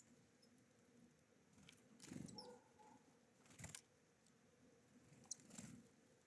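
Faint tapping and rustling of small birds at a feeder, with two brief high chirps.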